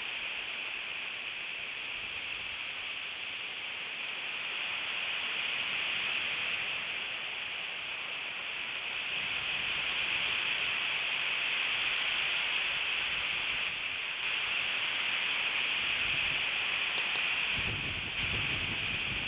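Strong wind blowing in a steady rush, with gusts buffeting the microphone as low rumbles a couple of times, once near the end.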